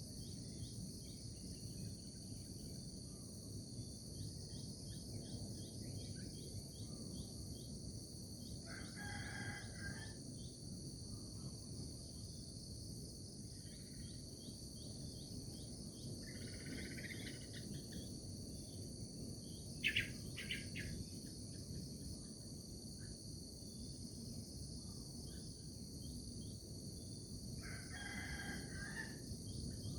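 Steady, high-pitched insect chorus with a rooster crowing twice, about nine seconds in and again near the end. A few fainter bird calls come in between, with a short sharp chirp about twenty seconds in.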